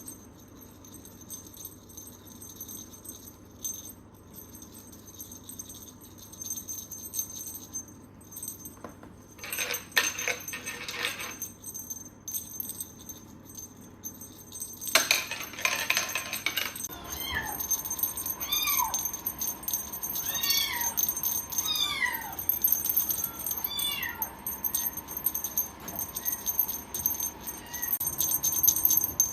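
A cat meowing repeatedly, a run of short rising-and-falling meows about one a second in the second half. Earlier there are two brief bursts of rustling noise.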